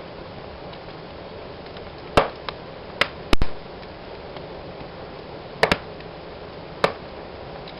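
Fireplace fire crackling: a steady soft hiss with sharp pops at irregular intervals, the loudest about three and a half seconds in.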